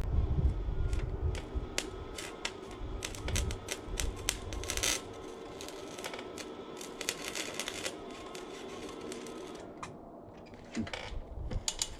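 Flux-core wire welder sputtering and crackling in short irregular runs over the welder's steady hum. The hum cuts out about ten seconds in, as the breaker trips on the truck's 120-volt supply.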